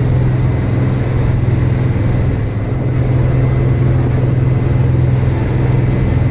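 Boat engine running at a steady speed, a loud, even drone.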